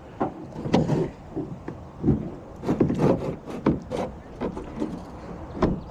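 Irregular knocks, thuds and scrapes against a boat, about a dozen in a few seconds, thickest in the middle.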